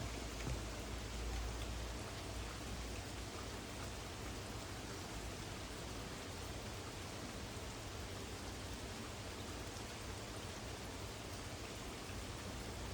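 Steady rain falling during a thunderstorm, an even hiss of drops. A low wind rumble on the microphone is stronger for the first few seconds, then eases.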